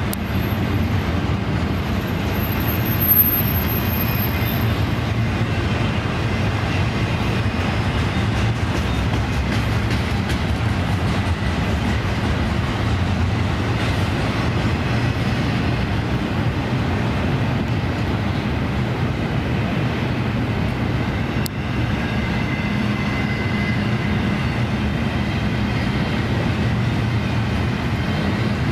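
A train rolling past close by: a steady, continuous rumble of wheels on rail, with some rail-joint clicking.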